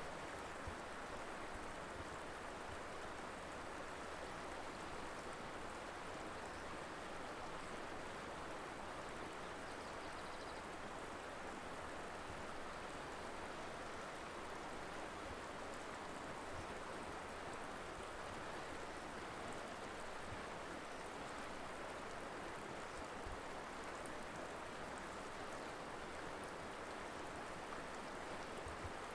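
Colorado River flowing: a steady, even rush of moving water.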